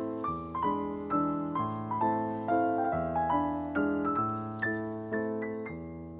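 Background piano music: a gentle melody of single notes over held chords, about two notes a second.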